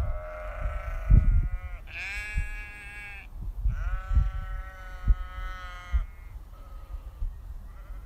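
Sheep bleating: three long, wavering bleats one after another, the last the longest, then weaker bleats near the end, over low rumbling thumps.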